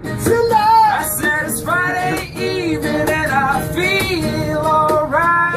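Singing over backing music: a voice carries a bending, sustained melody line.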